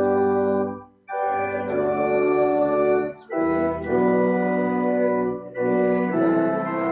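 Organ playing held chords phrase by phrase, with short breaks about a second in, just past three seconds, and around five and a half seconds.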